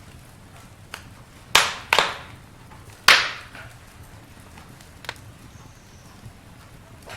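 Campfire crackling: sharp pops and snaps of burning wood over a low steady hiss. Several loud pops come in quick succession, the loudest about three seconds in, with softer ones about a second in and near five seconds.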